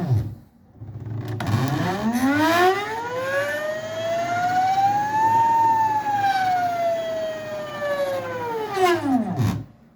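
Hoverboard hub motor whining under ramped PWM speed control: the whine falls to a stop just after the start, then rises steadily to a peak about halfway through and falls again to a stop near the end, rising and falling in pitch like a siren. The motor is starting and stopping cleanly as the speed ramps.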